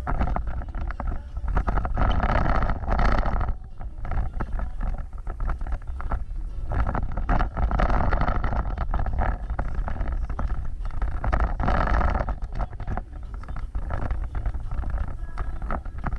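Off-road vehicle driving over rough ground: a heavy low rumble with frequent knocks and clatter, swelling louder three times.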